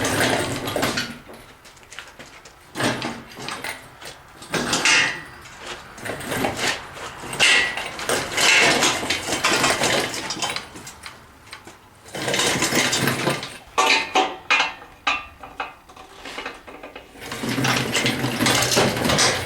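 A loaded engine stand being pushed on its casters, rattling and scraping over the ground in irregular bursts with short pauses between pushes.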